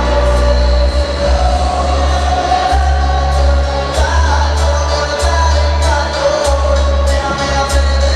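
Music with singing played loud through a competition car audio system, with heavy, steady bass.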